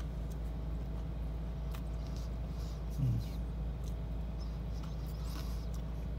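Faint chewing and small mouth clicks as a man tastes a pastry, over a steady low hum in a car cabin, with a short closed-mouth 'mm' about three seconds in.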